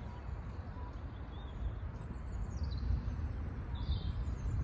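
Birds chirping: a few short high chirps, some falling in pitch, over a steady low rumble.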